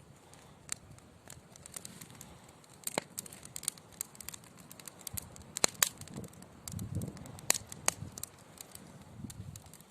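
Wood fire burning in a fireplace, crackling with scattered sharp pops from the logs, over a soft low rumble of flame now and then.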